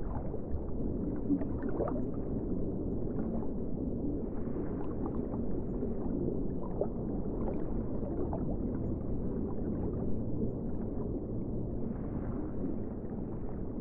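Muffled ocean water sound: a steady low rumble with faint scattered crackles and no distinct wave breaks.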